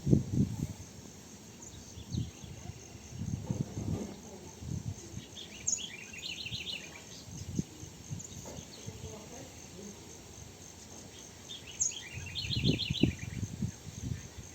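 A bird calls twice, about six seconds apart, each time a sharp high note followed by a quick run of notes, over a steady high insect trill. Low rustling and knocks come and go underneath.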